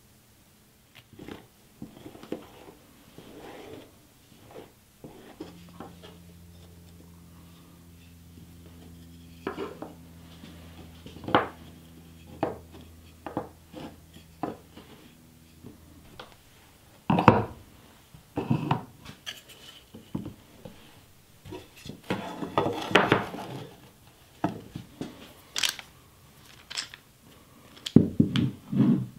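Glued hardwood strips knocked together and set down on a bench top in a run of irregular wooden clicks and knocks, then pipe clamps handled and fitted to the glued-up board, with louder metallic clacks and rattles in the second half.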